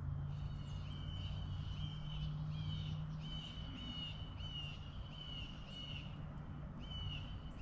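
A bird calling over and over, short sharp calls about twice a second, over a low steady hum.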